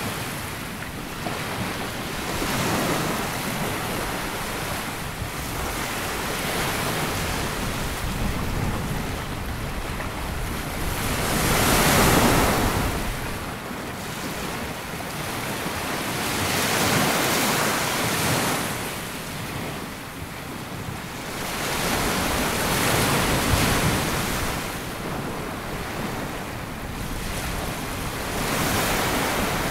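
Small sea waves breaking and washing up a sandy beach, swelling and fading every few seconds, the biggest wash about twelve seconds in, with wind on the microphone.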